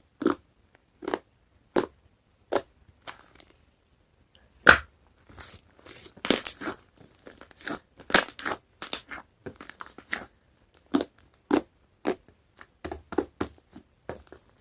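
Whipped-cream slime being squeezed and pressed by hand, giving sharp squishy crackles and pops: at first single pops about once every three-quarters of a second, then a denser, uneven run of crackles from about five seconds in.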